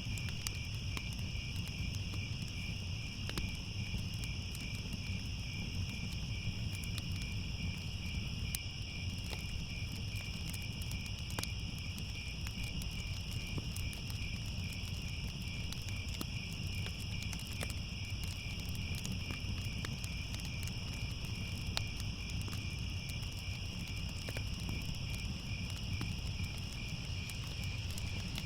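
Crickets chirping in a steady, rapid pulsing trill, over a constant low rumble and scattered sharp crackles of a wood fire.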